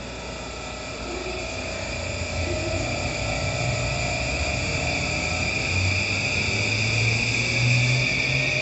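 E235 series electric train accelerating, its inverter-driven traction motors giving a whine that climbs steadily in pitch and grows louder as the train gets under way.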